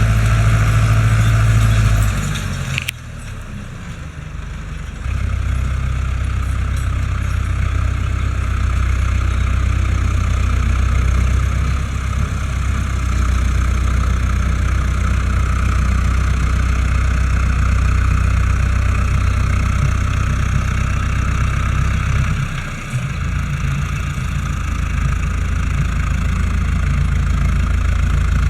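Fendt Farmer 106 S tractor's diesel engine running steadily. It drops away briefly about three seconds in, comes back about five seconds in, and shifts slightly in pitch a little past twenty-two seconds.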